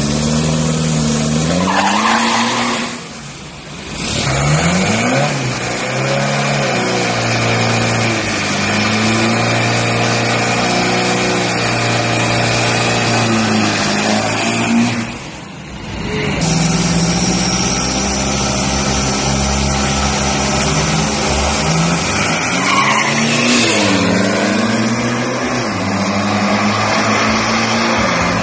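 Turbo-diesel SUVs, a Toyota Fortuner and an Isuzu MU-X, revving hard at a drag-strip start line and launching, with tyre squeal. The engine note climbs and falls again and again, and the sound drops away briefly twice.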